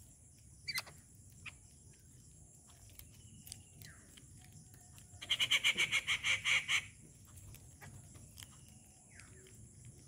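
A bird's harsh chattering call, a rapid run of about a dozen rasping notes lasting under two seconds, about five seconds in. Short chirps and clicks from the feeding birds are scattered around it.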